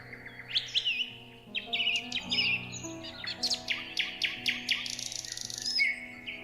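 Songbirds chirping and whistling in quick, sliding notes, over soft background music with held chords that change every second or so.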